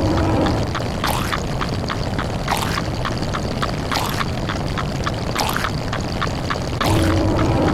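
A dense, fast stream of overlapping short sound effects set off by changing digits: quick ticks several times a second, a swishing sweep about every second and a half, and a louder stretch with a low steady tone near the start and again near the end.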